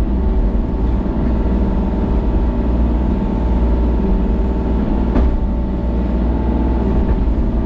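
Excavator's diesel engine running steadily under work, with a single knock about five seconds in.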